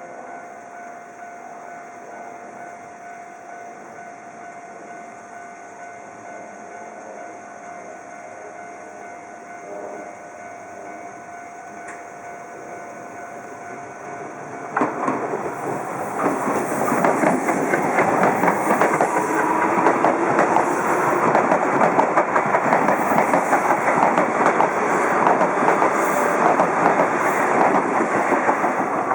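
Level crossing warning bell ringing steadily, then about halfway through a commuter train on the Hankyu Senri Line runs past close by, much louder, its wheels clattering rapidly over the rail joints until the end.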